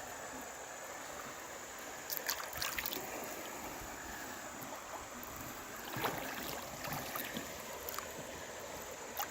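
Creek water running steadily, with a few short sharp sounds about two, three and six seconds in.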